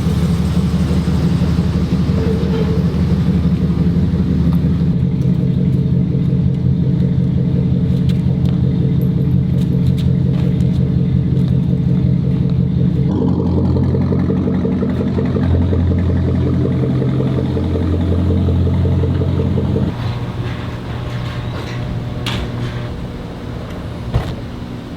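Dodge Ram SRT-10's 8.3-litre V10 engine running at low speed, its low note stepping to a different pitch a few times as the truck is moved.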